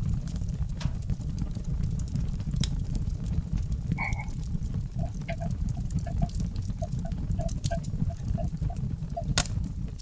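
A frog calling in a rapid series of short croaks, about three a second, starting about halfway through. Under it runs a steady low rumble with scattered sharp crackles.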